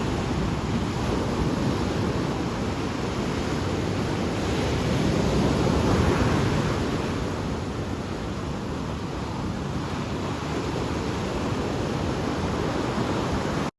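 Ocean surf washing in, a steady rushing noise that swells about halfway through, then cuts off suddenly at the very end.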